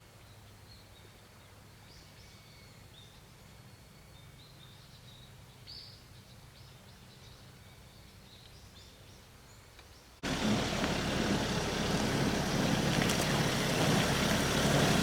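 Faint outdoor ambience of short bird chirps over a low steady hum. About ten seconds in it cuts abruptly to a much louder, steady rushing noise.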